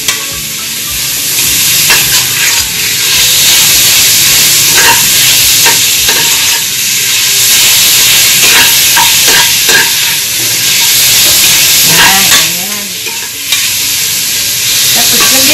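Garlic and onion sizzling in hot oil in a large metal pot, with a cooking utensil stirring and scraping against the pot's bottom and sides in irregular strokes.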